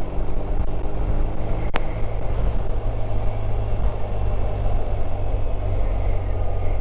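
BMW R1250 RT boxer-twin motorcycle on the move: a steady low rumble with the rush of riding wind, and a single sharp click about two seconds in.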